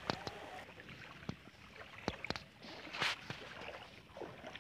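Faint water sounds: scattered drips over a low hiss, with a short splash about three seconds in.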